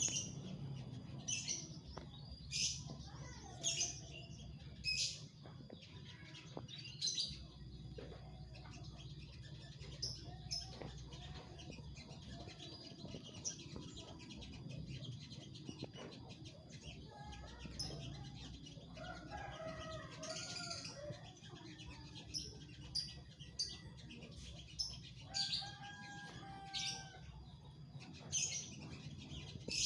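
Sogok ontong (spiderhunter) giving short, sharp, high chirps every second or so, with lower, drawn-out warbling notes twice in the latter half, over a steady low hum.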